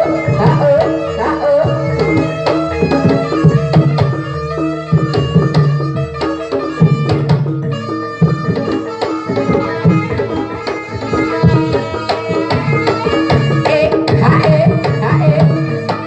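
Live jaranan accompaniment: kendang hand drums playing a busy rhythm over the steady pitched tones of gamelan instruments.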